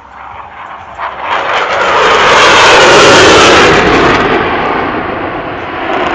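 Airplane flying over: a loud engine roar builds about a second in, peaks midway, then fades.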